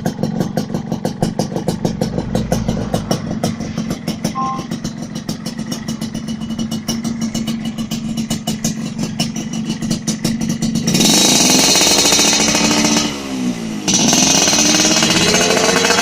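Yamaha RX-King two-stroke single-cylinder engine breathing through a racing exhaust, idling with a rapid, even popping beat. About eleven seconds in it is revved hard and loud, and a couple of seconds later the revs dip and climb back up.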